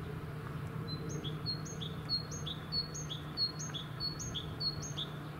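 A songbird singing a run of short, high, repeated notes, about three a second, over a steady low hum.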